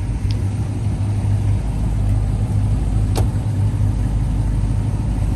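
A car engine idling steadily, with one sharp click about three seconds in.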